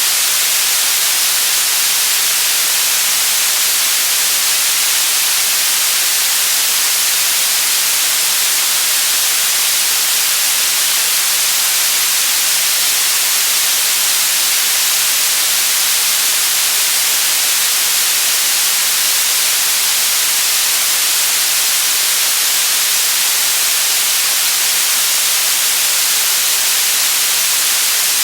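Steady white noise: a loud, even hiss with no change at all, its energy heaviest in the high frequencies.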